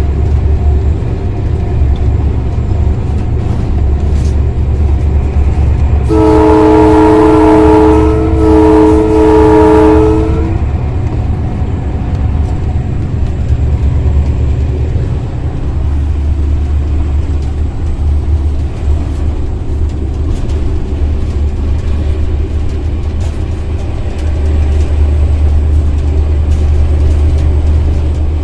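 GMU-30 diesel locomotive running at speed, heard from the cab as a steady low drone, with its horn sounded about six seconds in: a chord of two pitches, blown twice in quick succession for about four seconds in all.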